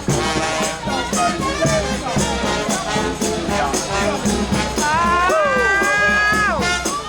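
New Orleans brass band playing second-line music: horns over a steady bass drum and snare beat. About five seconds in, a horn holds a long high note, then falls off it.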